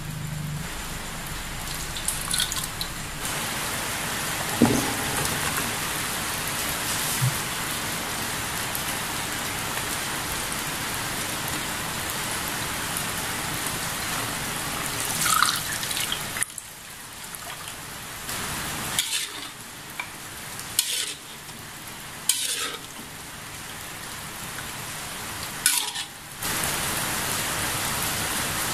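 Ground chilli, turmeric and lemongrass paste sizzling in hot oil in a steel wok, a steady hiss. About sixteen seconds in it drops to a quieter stretch broken by a few sharp clicks of metal on the wok. Near the end a steady hiss returns as the coconut-milk curry cooks.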